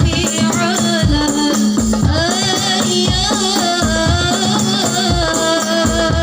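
Sholawat devotional music played through an amplified sound system: steady drum beats with a jingling rattle and a sung melody over them.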